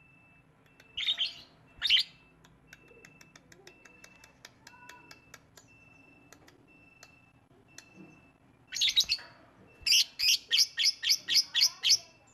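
Lovebird calling: single sharp, shrill chirps at first, then near the end a quick run of about ten calls, roughly five a second.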